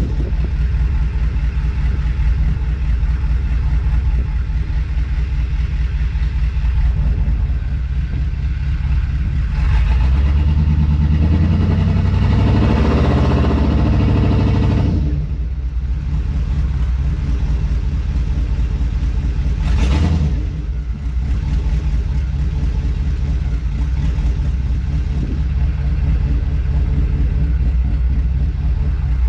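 2002 2500HD pickup's 6.0-litre V8 running, revved up for about five seconds from about ten seconds in, then settling back, with a short sharp sound near twenty seconds. The revving is an attempt to drive off in gear, but the truck does not move: the automatic transmission is not engaging, which the owner first put down to low fluid and later to a burnt band.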